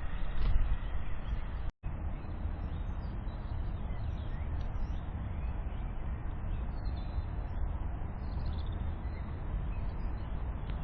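Faint chirps of small birds at a feeder over a steady low rumble, broken by a brief silent gap about two seconds in.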